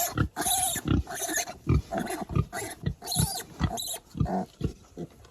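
Six-day-old piglet screaming in short, shrill squeals, two or three a second, while being held and restrained; the calls thin out and quieten near the end.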